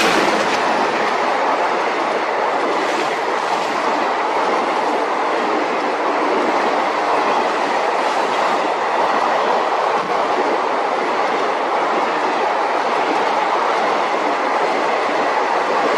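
Passenger train running on the rails with a steady, unbroken rumble of wheels and some clickety-clack.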